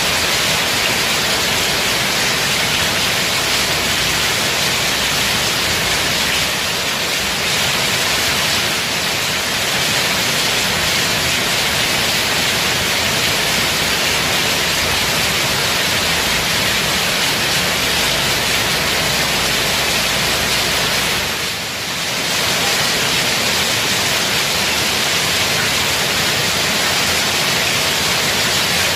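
Heavy rain pouring steadily, a dense even hiss that dips briefly about two-thirds of the way through.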